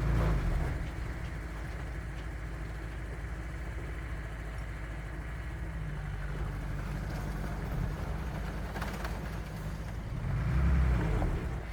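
Heavy earthmoving machine's diesel engine running steadily, a low rumble that swells louder right at the start and again about ten seconds in.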